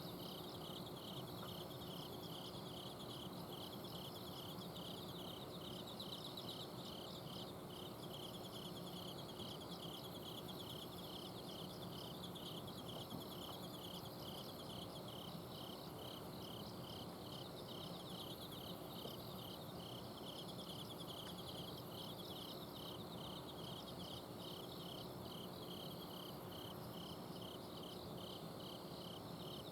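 A chorus of autumn crickets singing at night: one insect repeats a short pulsed chirp a couple of times a second, over continuous higher trills from others. A steady low hum from an air-conditioner's outdoor unit runs underneath.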